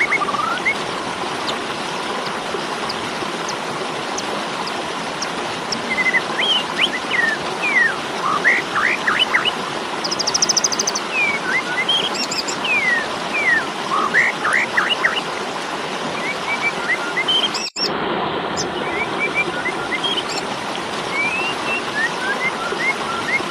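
Asian pied starling (jalak suren) calling in its fighting mode: bursts of short, sharp whistled notes that sweep up and down, over a steady hiss. The sound cuts out briefly about 18 seconds in.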